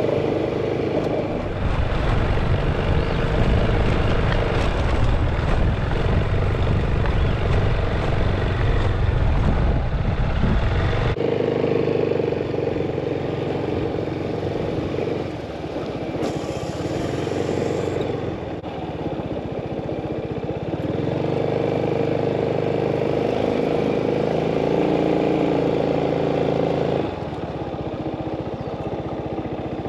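Motorcycle engine running on the move, its tone shifting up and down with speed. Heavy wind rumble on the microphone fills roughly the first ten seconds, then stops suddenly.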